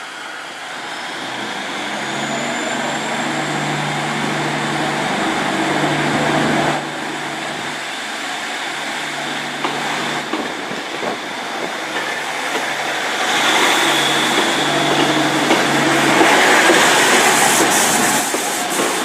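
Diesel multiple unit train on the move, its engine humming with a pulsing low note and growing louder. Wheel and rail noise builds up in the last few seconds.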